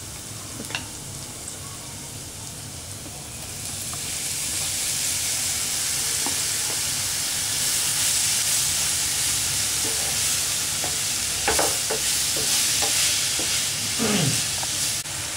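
Spices sizzling softly in hot oil in a non-stick frying pan. About four seconds in, the sizzle grows much louder as grated radish, which gives off water, is fried in the oil and stirred with a wooden spatula, with a few scrapes.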